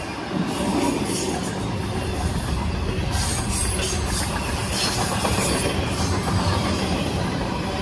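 Freight train rolling past, with a steady rumble of wheels on the rails.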